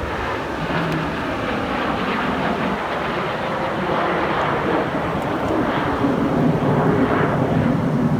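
Aircraft flying past an airshow crowd, a steady engine roar that grows louder in the last couple of seconds.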